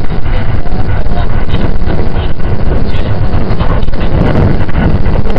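Cabin noise inside a JR 681 series electric limited express train in motion: a loud, steady low rumble of wheels running on the rails.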